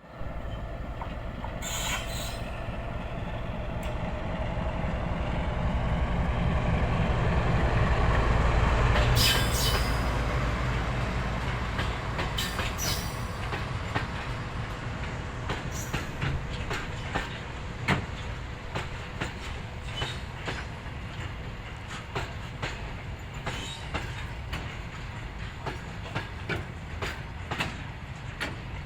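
Diesel-hauled train running past, a low rumble that builds to a peak about a third of the way in and then slowly fades, with brief high wheel squeals. In the second half, many sharp clicks of the wheels over the rail joints.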